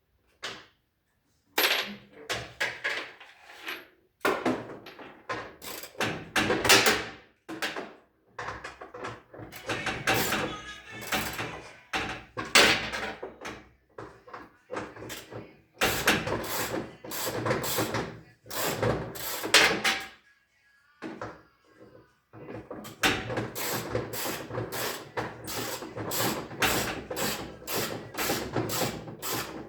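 Hand tools clanking and scraping on metal washing-machine parts in irregular knocks, then a fast, regular run of sharp clicks, about three a second, over the last several seconds.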